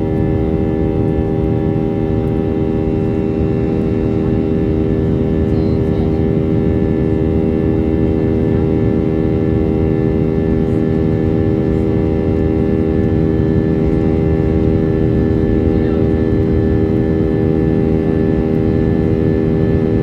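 Airplane engines running steadily: a hum of several held tones over a low rumble, growing slightly louder over the stretch.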